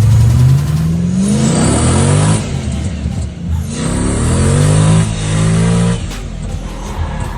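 Audi TT MK1 drift car's engine revving hard, its pitch climbing through a pull, dropping, then climbing and holding again before falling away, with tyres squealing during the high-rev stretches of the drift.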